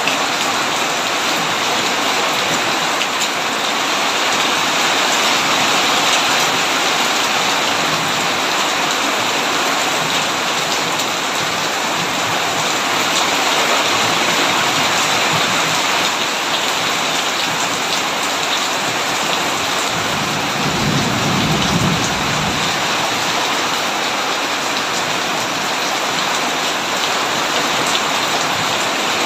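Heavy rain drumming steadily on a tin roof. About two-thirds of the way through comes a short, low rumble of thunder.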